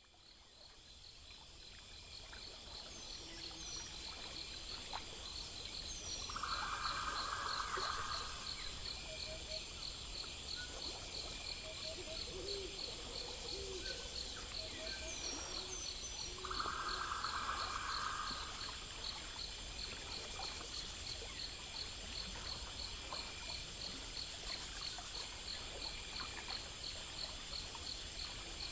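Night nature ambience fading in: insects chirping steadily in a fast pulsing rhythm, with short bird chirps now and then. Twice, about 7 and 17 seconds in, a louder trilling call stands out for a second or two.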